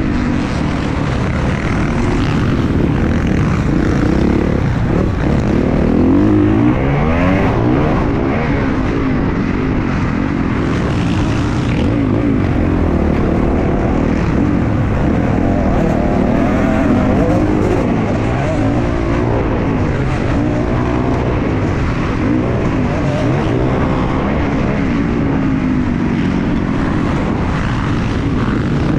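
Several motocross bikes running on a dirt track, their engines revving up and down in overlapping rises and falls.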